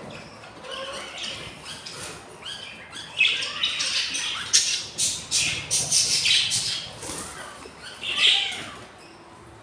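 Budgies giving harsh, raspy squawks and chirps, a quick run of loud calls from about three seconds in and one more near the end.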